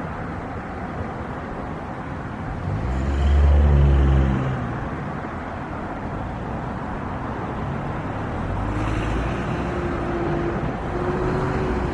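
A motor vehicle passing close by, its engine note falling as it goes, over a steady outdoor roar; a second engine rumble builds near the end.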